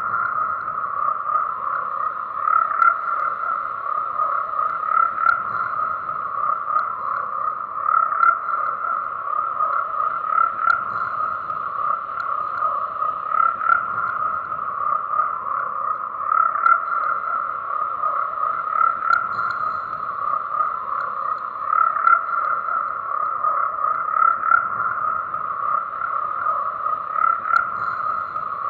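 A chorus of many frogs croaking continuously, their calls overlapping into a steady, unbroken din.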